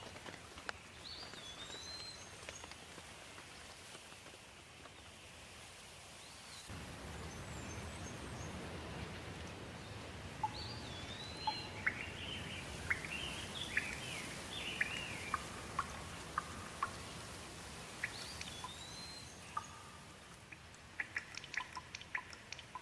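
Steady rain with birds singing: a short whistled phrase that rises and falls recurs several times, with a busier run of chirps in the middle. The rain gets louder about seven seconds in, and quick drip-like ticks come near the end.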